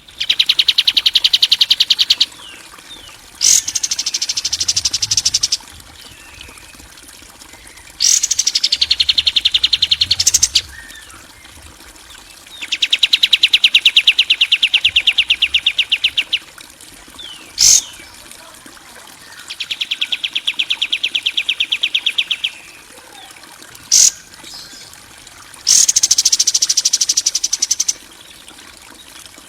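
A songbird singing long, very fast, rough trills of two to three and a half seconds each, six in all with short pauses between, and a few sharp single notes in the gaps. It is a 'kasaran' master song, the harsh trilling phrases played to caged songbirds so they learn them.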